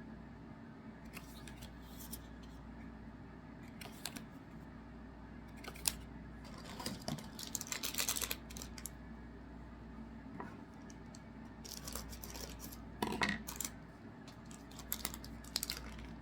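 Trading card packs being opened and the cards handled: scattered crinkles of pack wrappers and light clicks and slides of cards. There is a denser bout of crinkling around eight seconds in and another near thirteen seconds.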